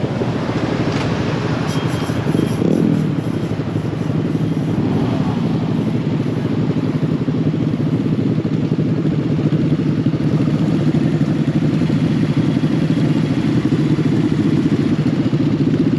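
Mini bike's small engine running steadily while riding, with a rushing noise over it in the first few seconds.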